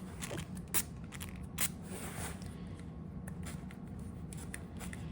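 A few light clicks and taps of small objects being handled on a desk, two sharper ones about a second and a second and a half in, over a steady low hum.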